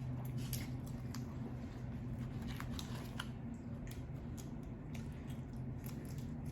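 Close-miked chewing of lo mein noodles, with irregular small wet mouth clicks, over a steady low hum.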